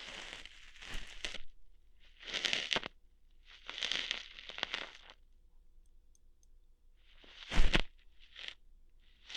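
Ear hairs being plucked out in close-up ASMR, a crackling, tearing sound in about five bursts of up to a second each, with pauses between. The loudest burst, about three-quarters of the way through, has a dull bump under it.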